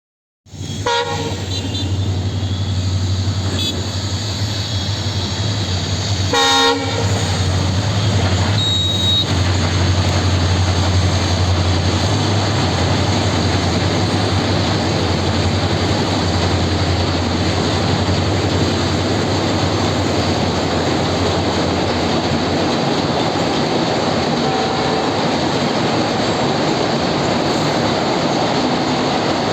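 Train on a railway bridge running past with a loud, steady rumble throughout, starting about half a second in. Short horn blasts sound near the start and again about six and a half seconds in.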